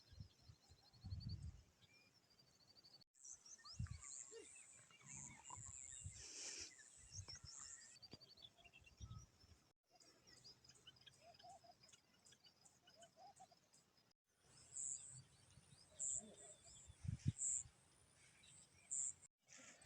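Faint chirping and twittering of small birds, many short high calls, with scattered low thumps. The sound cuts out abruptly several times.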